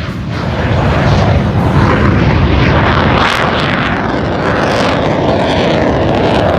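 Aircraft engine noise building over about the first second as an airplane passes close by, then holding loud and steady.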